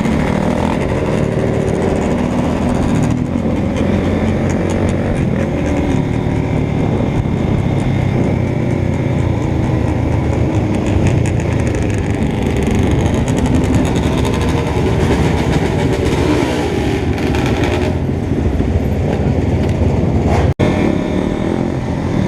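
Motorcycle engine running under way, its revs rising and falling, with a momentary break near the end.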